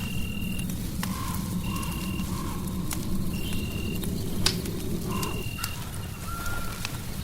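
Fireplace crackling, sharp pops over a steady low rush of noise. A high, even-pitched chirp about half a second long repeats roughly every second and a half, with fainter lower calls between.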